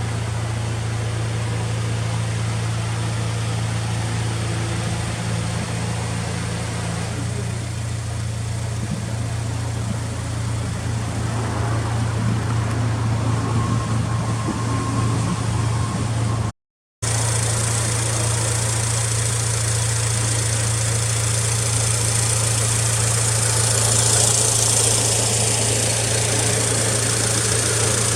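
Honda Civic Type R engine idling steadily through an aftermarket FEEL'S muffler, with no revving. The sound cuts out for a moment a little past halfway, then carries on unchanged.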